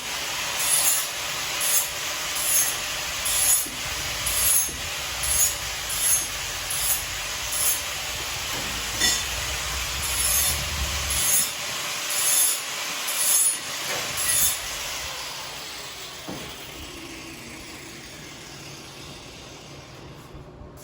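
Metalworking tool on steel tubing: a steady harsh hiss with sharp surges about once a second for some fifteen seconds, then fading away gradually.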